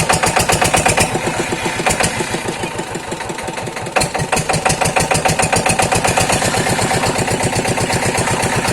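Diesel water-pump engine running with a rapid, even beat. It runs a little softer for a couple of seconds, then picks up sharply about four seconds in.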